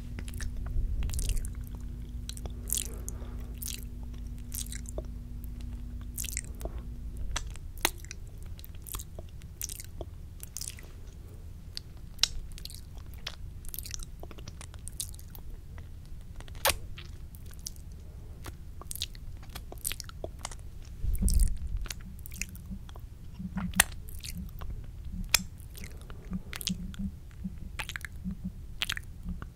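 Close-miked ASMR mouth sounds: irregular, rapid clicks and smacks of the lips and tongue, with a low thump about two-thirds of the way through.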